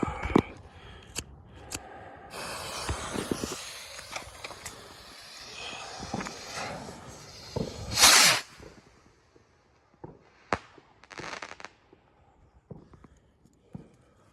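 Firework hissing for about six seconds, then a loud bang about eight seconds in, followed by a few fainter cracks.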